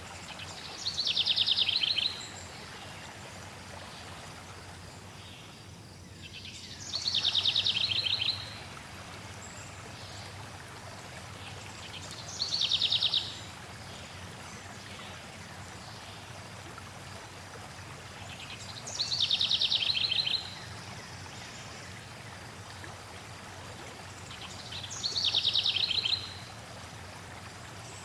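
A songbird repeating a short, fast trilled phrase five times, about every six seconds, over the steady rush of flowing water.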